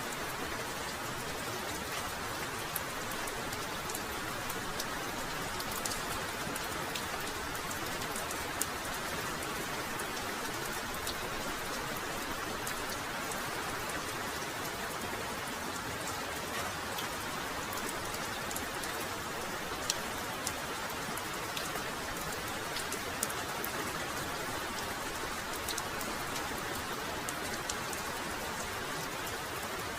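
Heavy rain falling steadily, with scattered sharp individual drop hits.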